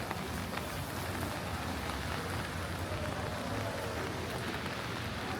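Steady rain falling on a wet city street, with scattered drip ticks and a low steady rumble underneath.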